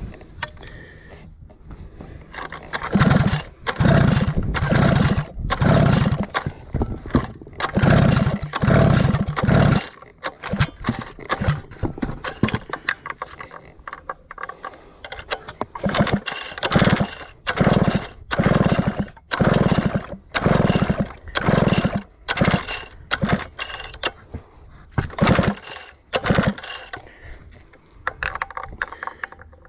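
Stihl 051 chainsaw being pulled over again and again on its recoil starter, each pull a short burst from the cord and spinning engine, about one a second with a few brief pauses. The pulls are flushing fluid and water out of the cylinder through the spark plug hole.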